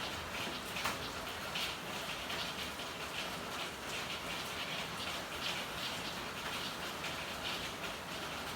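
Steady rain falling, an even hiss of rainfall with frequent irregular drops striking hard surfaces.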